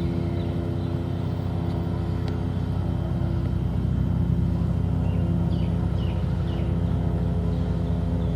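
Helicopter running steadily: a low drone with a rapid pulsing beat, growing a little louder about halfway through.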